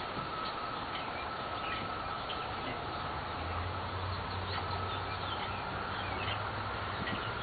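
Small birds chirping in short repeated calls over a steady outdoor background hiss. A low steady hum joins about three and a half seconds in.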